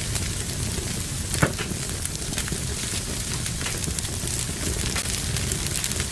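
Fire burning in a fireplace, crackling steadily with many small snaps and one louder pop about a second and a half in.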